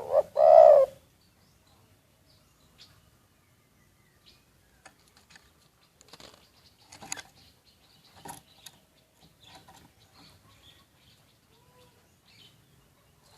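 Spotted dove cooing: a loud two-part coo note in the first second. It is followed by a quiet stretch of faint scattered clicks, rustles and small chirps.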